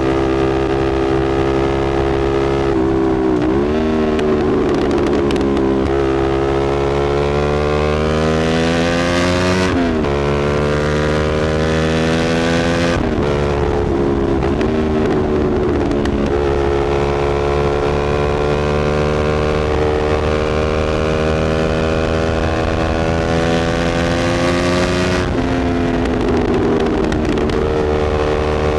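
Motorcycle engine with a slip-on aftermarket exhaust, being ridden through the gears: its note climbs steadily, then drops sharply at gear changes about ten and thirteen seconds in, then climbs slowly again before another drop near the end.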